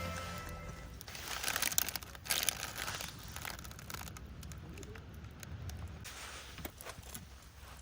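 Crinkling, rustling handling noise in a cluster of irregular bursts over a couple of seconds, then fainter scattered rustles.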